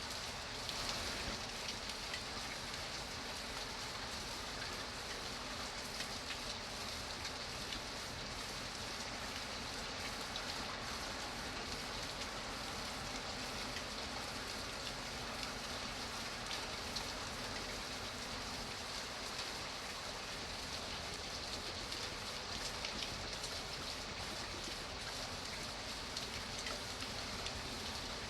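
Steady rainfall, a dense even hiss of raindrops pattering on a surface with fine individual drop ticks.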